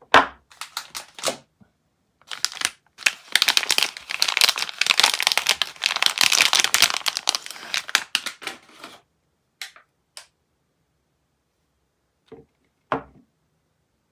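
Soap packaging being unwrapped by hand, crinkling densely for several seconds. A sharp knock at the start and another near the end, with a few light ticks between, as the bar and wrapper are handled.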